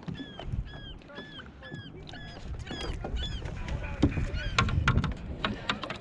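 A bird calling in a rapid run of short, hooked calls, about three a second. From about four seconds in, a cluster of sharp clicks and knocks, the loudest part.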